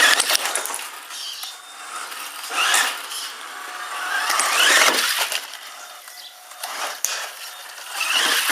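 Brushed electric motor of a 1/10 scale RC monster truck whining up in pitch with bursts of throttle, about four times, over a rattle of drivetrain and tyres.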